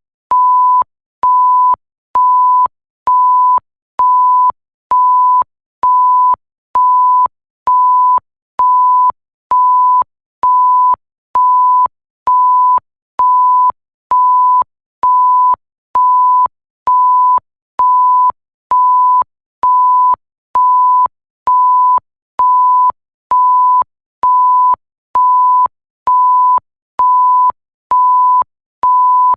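Electronic bleep tone, a pure steady pitch around 1 kHz, repeating at an even rhythm of just under one beep a second, each beep about half a second long with short silent gaps between.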